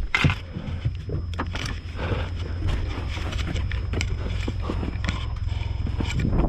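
Snowplow vehicle's engine running with a steady low hum, under irregular knocks and rattles.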